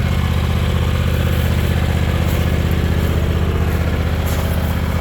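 John Deere X354 lawn tractor's V-twin engine idling steadily, with an even, rapid pulse and no change in speed.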